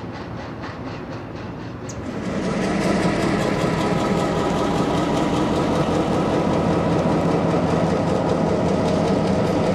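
Wheels of intermodal freight cars clacking over rail joints at about four beats a second as the tail of the train passes. About two seconds in this gives way to the louder, steady rumble of a single Norfolk Southern diesel locomotive running light without a train.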